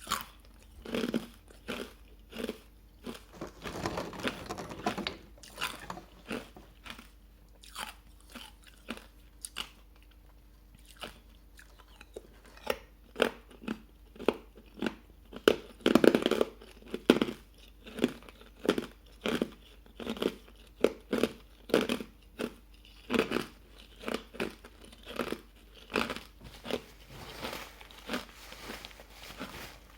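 Hard ice with matcha powder being bitten and chewed close to the microphone: a long series of sharp crunches, roughly one or two a second, with the loudest cluster about halfway through.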